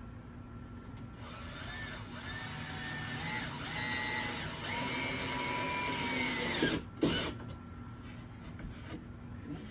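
Cordless drill/driver driving a screw through the support board into the wall, its motor whine rising in steps and then dropping away as the screw seats. A short sharp knock follows.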